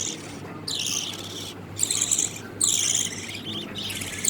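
Budgerigar chicks giving repeated raspy, high-pitched begging calls, about one a second.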